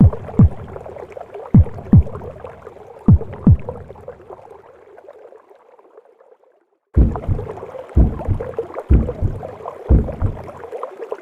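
Recorded heartbeat: paired low thumps about every one and a half seconds over a steady whooshing womb-sound hum. It fades out near the middle, and after a moment's silence a heartbeat starts again at about one beat a second.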